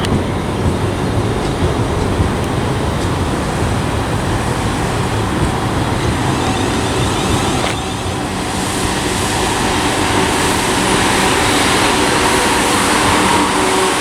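South Western Railway Class 444 electric train at the platform, a steady rumble. A little under eight seconds in there is a single click, after which a hum of several steady tones rises over the noise.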